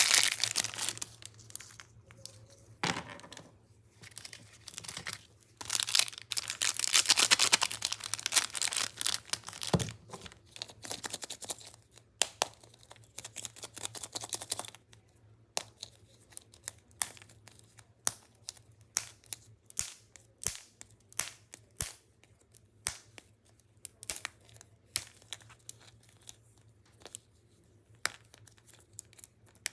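Plastic biscuit packet crinkling and tearing as it is handled and opened: dense bursts of crinkling through the first half, then scattered sharp crackles and ticks.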